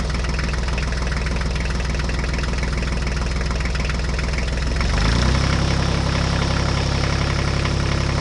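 Diesel tractor engine idling with a steady, fast knock. About five seconds in, its low note shifts and it gets slightly louder.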